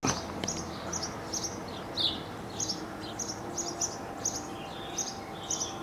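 A small bird chirping repeatedly, short high notes about two a second.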